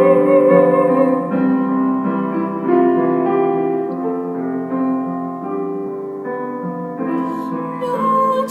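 Piano accompaniment playing slow, sustained chords. A held sung note with vibrato trails off in the first second.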